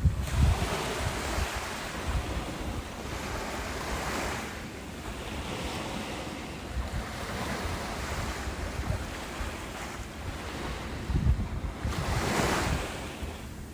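Ocean waves breaking and washing onto a shore, a steady rush that swells and fades every few seconds, with the biggest surge near the end.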